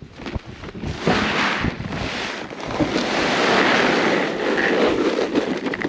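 Sweet feed (corn and grain) pouring from a bag into a feeding trough: a steady rushing hiss that swells about halfway through, with a few knocks from the bag early on.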